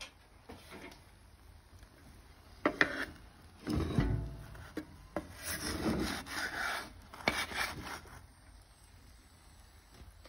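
Cookware being handled: a few knocks, a heavy thump about four seconds in, then several seconds of scraping and rubbing, as cooked flatbreads are lifted out of a pan.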